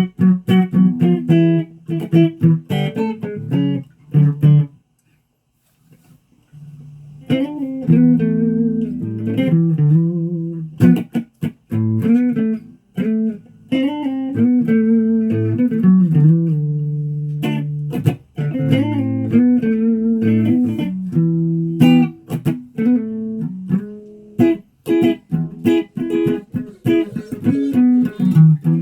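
Guitar being played: quick short plucked notes, a pause of about two seconds, then longer ringing notes, some bending in pitch, mixed with short plucks.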